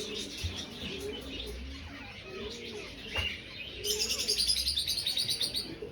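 Pigeons cooing in a loft, with other birds chirping. About four seconds in, a fast, high chattering trill runs for roughly two seconds.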